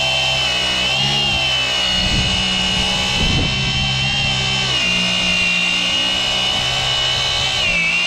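Engine-driven firewood processor running under power, with a steady high whine over the engine and a few clunks about two to three seconds in.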